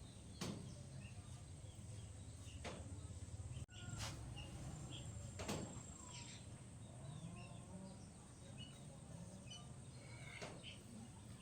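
Faint outdoor ambience: small bird chirps over a low steady hum, with a few soft knocks scattered through.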